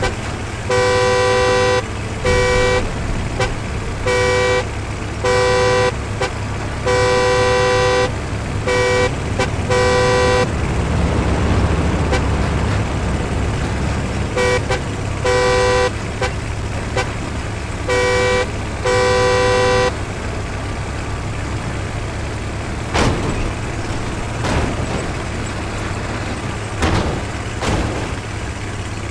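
Two-tone vehicle horn honked over and over in short and long blasts through the first ten seconds, then a few more times midway, over a steady low engine rumble. A few sharp knocks come near the end.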